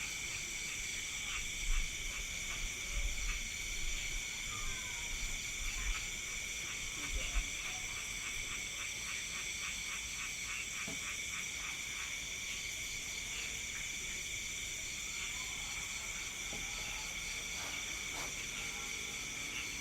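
Night-time insect chorus, a steady high-pitched ringing of crickets, with a frog calling in a rapid series of regular pulses through the first half. A few low thumps come in the first several seconds.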